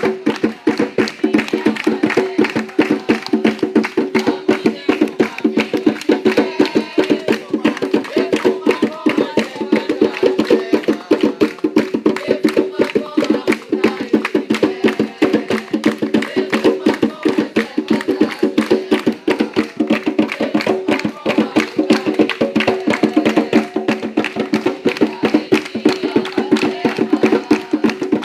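Umbanda ritual drumming: atabaque hand drums playing a fast, steady rhythm with no singing over it.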